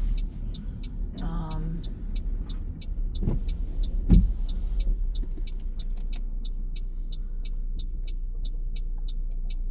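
Car driving, heard from inside the cabin: a steady low road rumble with a regular ticking about two to three times a second. There are two thumps about three and four seconds in, the second the loudest.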